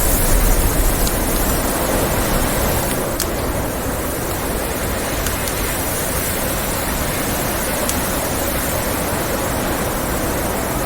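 Blizzard wind blowing as a steady rushing noise, a stronger gust swelling in the first second, with a few sharp crackles from a wood fire.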